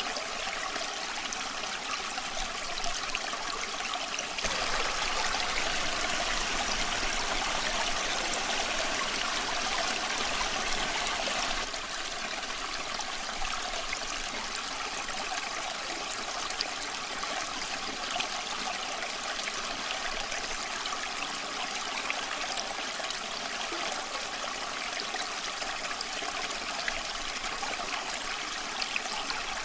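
A small stream running steadily over stones, a constant rushing trickle with faint scattered crackles of a campfire mixed in. A louder stretch of water starts abruptly about four seconds in and drops back about twelve seconds in.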